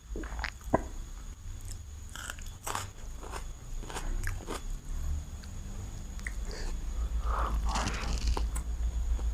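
Close-miked chewing and biting of chicken biryani: scattered wet clicks and small crunches, with a denser, crackly stretch of chewing near the end.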